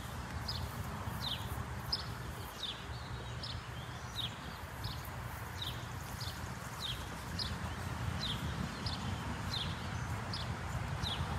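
A bird calling over and over: a short, falling chirp about three times every two seconds, over a steady low rumble.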